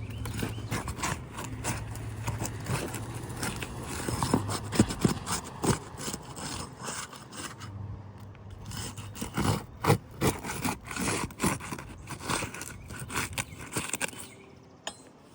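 Rough scraping and rubbing with many sharp knocks, from handling and working asphalt roof shingles. A low steady hum sits underneath for the first few seconds and again briefly around the middle.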